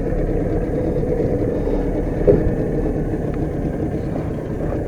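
A boat engine running steadily at a low, even speed while the boat trolls.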